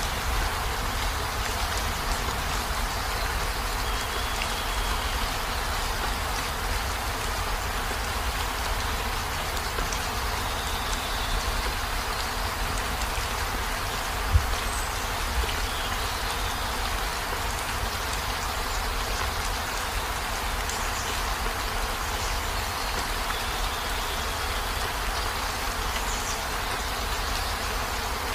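Steady heavy rain falling on a camper van's roof and windows, heard from inside, with a low rumble beneath it. A single sharp knock stands out about halfway through.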